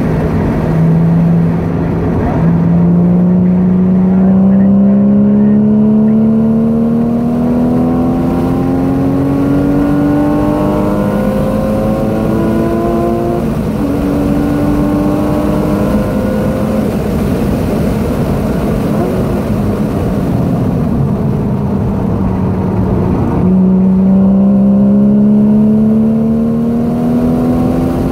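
Porsche 981 Boxster S's 3.4-litre flat-six heard from inside the cabin, accelerating hard with its pitch climbing steadily. The engine note falls away off-throttle for several seconds past the middle, then climbs again from about five seconds before the end.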